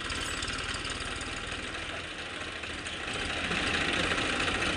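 Diesel tractor engines running with a steady low throb, getting a little louder about three seconds in.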